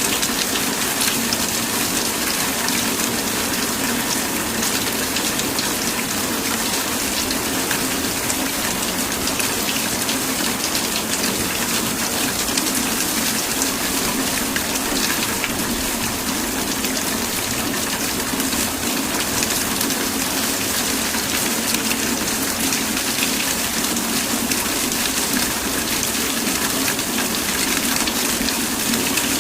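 Steady heavy rain falling and pattering on surfaces, an even hiss with fine drop detail throughout.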